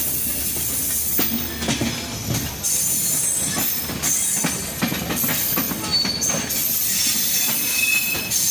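Bangladesh Railway Silk City Express passenger train pulling out of a station, heard from aboard the moving coach: the wheels clack irregularly over rail joints and points, with brief high-pitched wheel squeals over a steady rushing hiss.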